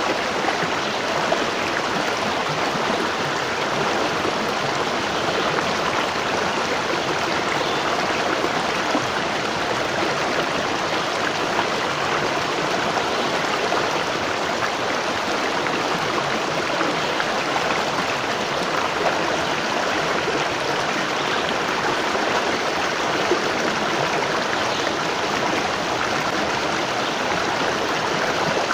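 Waterfall: water falling and splashing in a steady, even rush with no pauses or changes.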